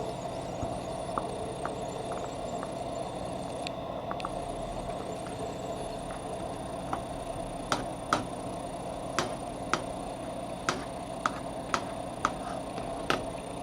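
Steady background hum, with a series of sharp short clicks or taps about every half second to second from a little past halfway in.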